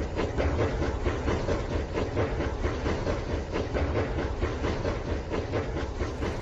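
Rail King battery-powered toy train running on its track: the motor drones steadily under rapid, even clicking from the running gear.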